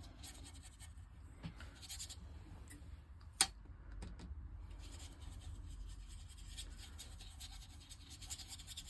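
Watercolour brush being dragged over textured paper in short scratchy strokes, with one sharp tap about a third of the way through, over a faint steady low hum.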